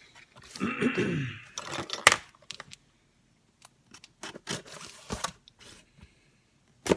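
Small cardboard shipping box being opened by hand: a scraping tear about half a second in, then rustling, clicks and a few sharp knocks of the packaging and parts.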